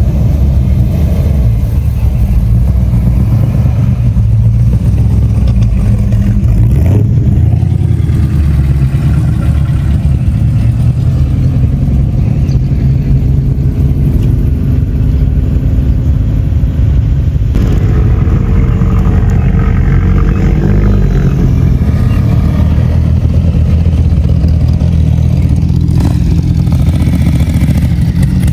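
Classic car engines running as the cars drive out past at low speed, a continuous deep engine sound with some rises in pitch as they accelerate.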